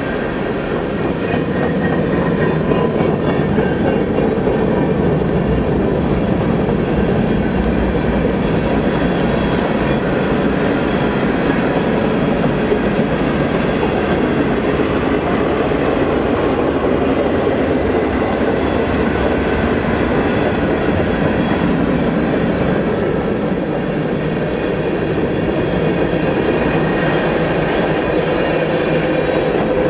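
Freight train rolling past, its wheels clicking and rumbling over the rails in a steady, unbroken run.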